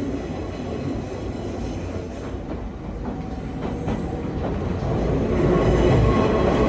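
Nankai 2200 series train car running, heard from inside the car: a steady rumble of wheels on rail with a few faint clicks. Near the end the level rises as a high wheel squeal comes in, typical of the flanges grinding through a sharp curve.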